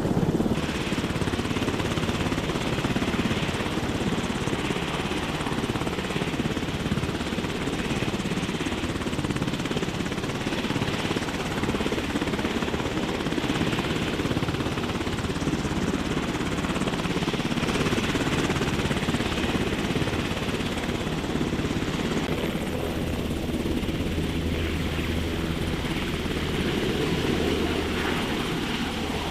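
CH-53 heavy-lift helicopter running: a steady, dense rotor and turbine rumble. About three-quarters of the way through, a deeper drone and a thin high whine join in.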